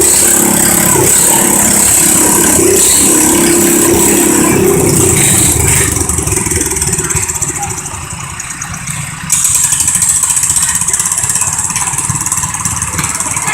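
International Cub Cadet garden tractor engine running hard under load during a pull. The level sags somewhat around the middle, then jumps back up abruptly.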